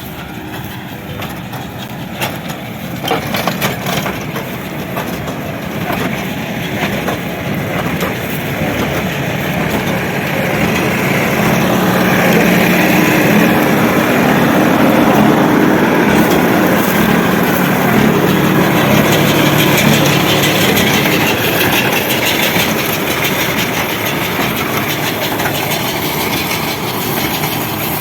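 Farm tractor engine running under work, with a mechanical clatter, getting louder over the first dozen seconds and then staying loud.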